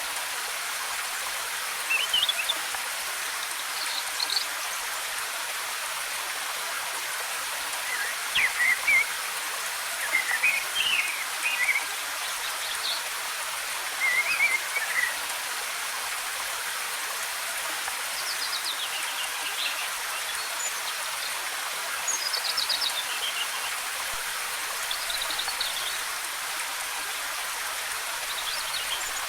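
Steady hiss of cascading waterfall water, with short chirps and trills of forest birds breaking in every few seconds.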